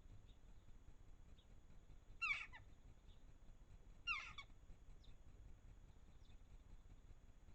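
A bird giving two short calls about two seconds apart, each falling slightly in pitch, with faint high chirps scattered between them.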